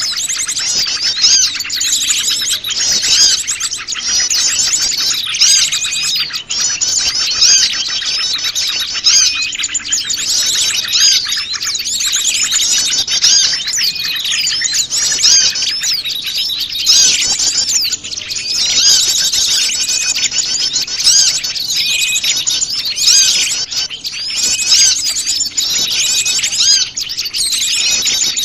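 A busy chorus of many small wild birds chirping and twittering at once, with fast repeated trills overlapping without a pause: a mixed small-bird lure call for drawing birds in.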